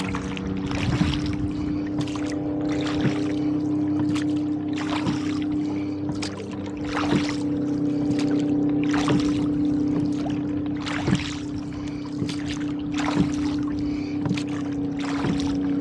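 Oars of a rowboat working steadily, a stroke about every two seconds, each with a short splash and knock of the oars, over a steady hum.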